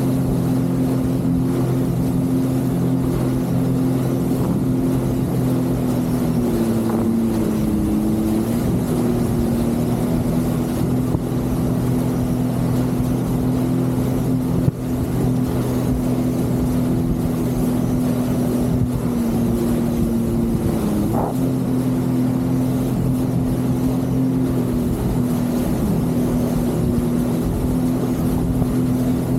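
Jet ski engine running at a steady cruising speed, its pitch dipping briefly about seven seconds in and again around twenty-one seconds, over a constant rush of water and wind. A single brief knock about halfway through.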